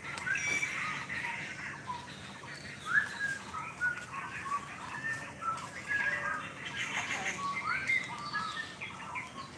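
Small birds chirping and calling in irregular short notes, many of them quick rising chirps, overlapping throughout.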